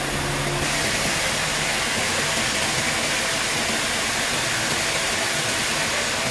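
Sawmill machinery running: a steady, noisy mechanical hiss with no clear rhythm, changing character about half a second in.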